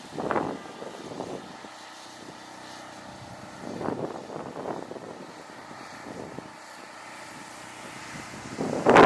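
A steady engine drone, with brief gusts of wind buffeting the microphone a few times and a loud gust at the end.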